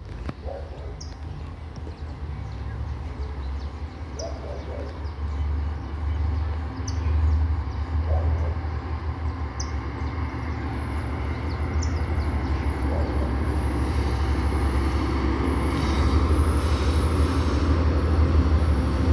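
Diesel-electric locomotives hauling a loaded iron ore train, approaching: a deep engine rumble grows steadily louder as the train nears. A high hiss joins about halfway through.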